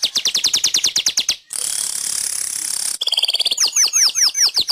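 Manyar (weaver bird) song: a fast ticking trill of about ten notes a second, then a long hissing wheeze, then a run of quick downward-slurred notes near the end.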